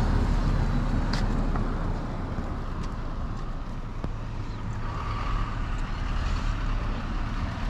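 Steady low rumble of road traffic, with a sharp click about a second in.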